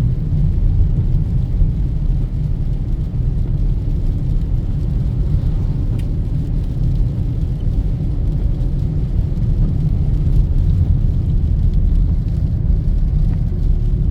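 Steady low rumble of a car driving along the highway, road and engine noise with no clear events.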